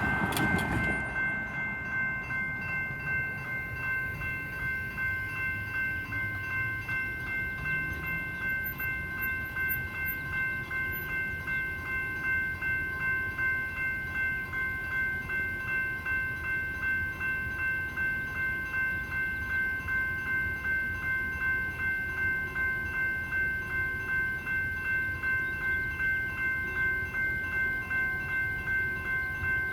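Electronic railroad crossing bells ringing, a rapid, even ding that repeats steadily, with a low rumble underneath.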